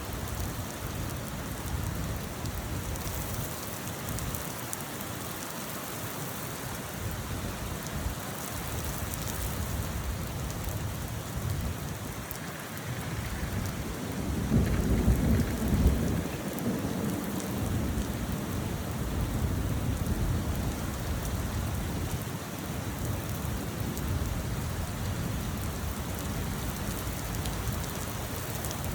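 Steady rain falling, with a low roll of thunder about halfway through that swells for a few seconds and fades back into the rain.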